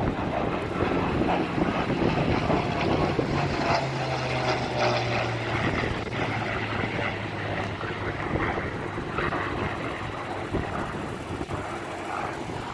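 Piston-engine WWII propeller aircraft flying past, its engine drone falling in pitch as it passes, with wind buffeting the microphone.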